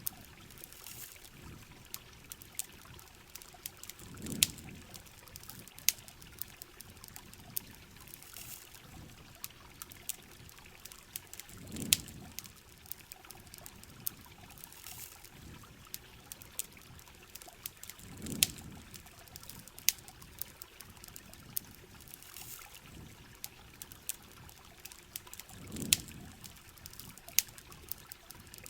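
Rain falling with trickling, dripping water, scattered sharp pops and crackles of a campfire, and a low swelling whoosh that comes back about every seven to eight seconds.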